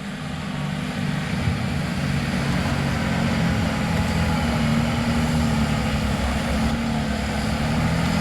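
Unlimited-class John Deere pulling tractor's diesel engine running at full power under load as it drags a pulling sled down the track. It gets louder over the first second or so, then holds steady with a deep, slightly wavering tone.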